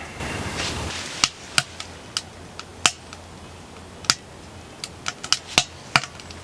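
Firewood burning in a wood stove, crackling with about ten sharp, irregular pops.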